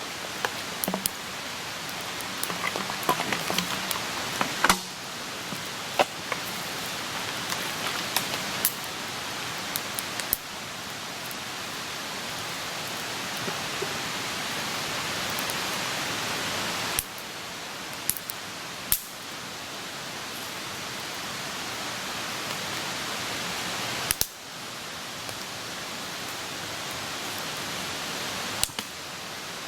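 Open wood campfire burning: a steady hiss of flames with scattered crackles and sharp pops from the burning wood, the pops most frequent in the first ten seconds.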